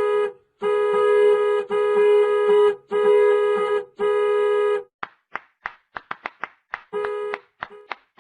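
A toy mixer truck's electronic sound chip plays five long beeps at the same pitch, each about a second long. These are followed by a quick run of sharp clicks, with one short beep among them near the end.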